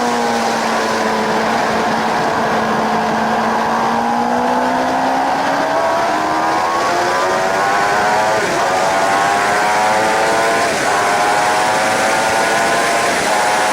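Suzuki GSX-R 750 K7's inline-four engine heard from onboard over steady wind rush, holding a level note for a few seconds and then revving up as the bike accelerates. In the second half the rising pitch breaks and drops briefly three times, at quick upshifts.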